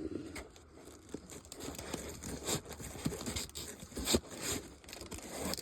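Plastic comic-book bags crinkling and rustling as bagged comics are handled and flipped through, with irregular crackles and a few louder rustles about two and a half and four seconds in.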